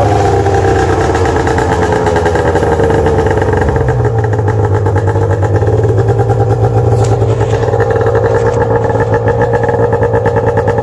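1997 Arctic Cat EXT 580 EFI snowmobile's two-stroke twin engine running just after starting, a steady fast-pulsing engine note that settles slightly lower about four seconds in.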